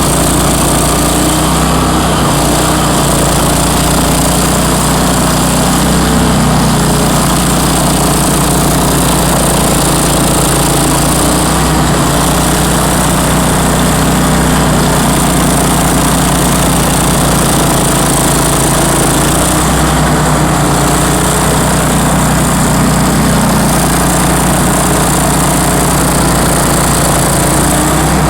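Bandit ZT1844 stump grinder's engine running loud and steady at high speed.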